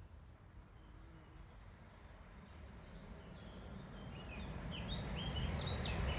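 Small birds chirping in short high calls over a low outdoor rumble that grows steadily louder through the second half.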